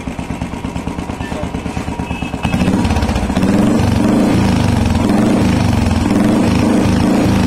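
Royal Enfield Bullet Electra's single-cylinder engine running through an aftermarket exhaust silencer. It is idling with a quick thudding exhaust beat, then about two and a half seconds in the revs rise and it runs louder, held there.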